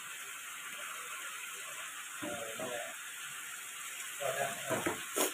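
Chicken and holy basil frying in a wok with a steady sizzling hiss. Two short snatches of voice break in, and there is a sharp click near the end.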